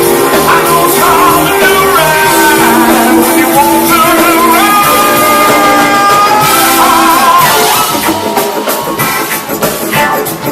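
Live rock band with a brass section playing loudly, with held notes from singing or horns over guitar and drums. About eight seconds in, the held notes give way and the drums stand out.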